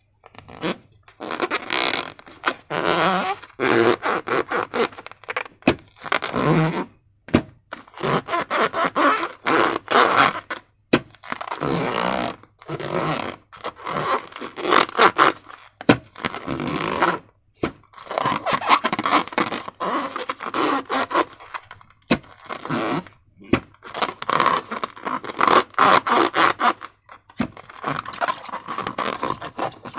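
Slime being squished and stretched by hand: wet, crackly squelching in repeated bursts of a second or two, full of small sharp clicks and pops, with brief pauses between.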